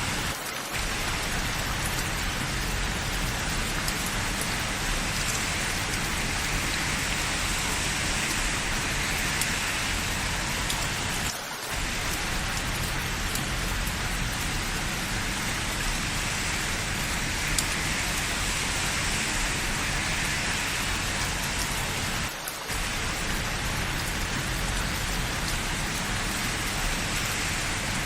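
Steady rain falling, an even hiss with no distinct events apart from short dips in level about every eleven seconds.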